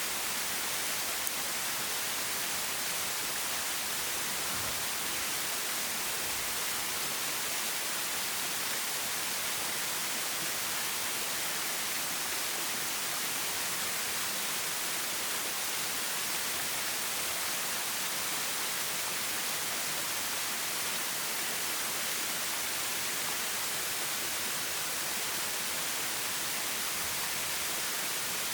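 Clear forest stream flowing, its rushing water a steady, even hiss.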